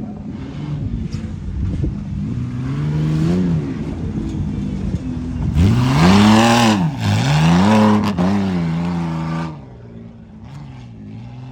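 Truck engine revving hard in a tuff truck run, its pitch climbing and falling in several surges. It is loudest from about halfway through, then eases back to a lower running sound near the end.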